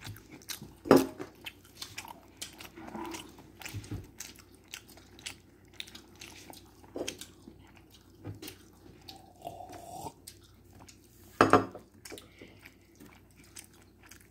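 A child chewing and biting food with many small clicks and crunches, interrupted by a couple of loud knocks, one about a second in and one near the end.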